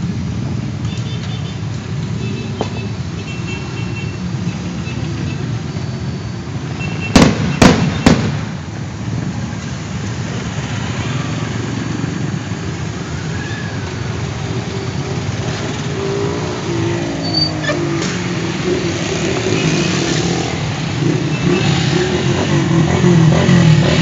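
A stream of motorcycles passing on a highway, engines running steadily, with three sharp bangs in quick succession about seven seconds in. The engine noise grows louder near the end as more bikes pass close by.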